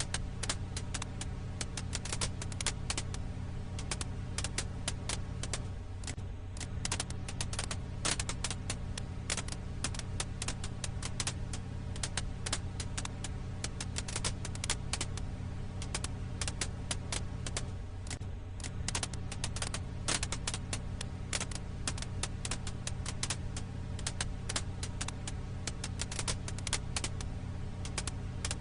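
Wood fire crackling: frequent, irregular sharp pops and snaps over a steady low hum.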